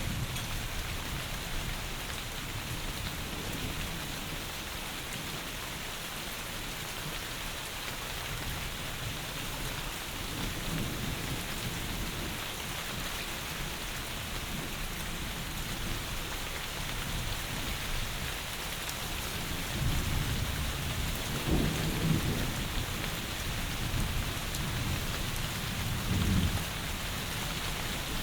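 Heavy rain falling steadily, with low rolls of thunder swelling up about two-thirds of the way through and again near the end.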